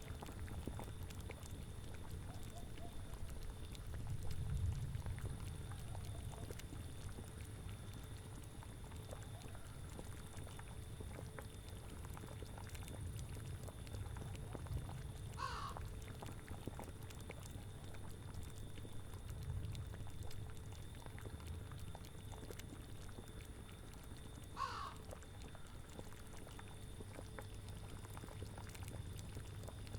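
A cauldron bubbling at a low, steady boil, swelling now and then, with two short animal calls about nine seconds apart, each falling in pitch.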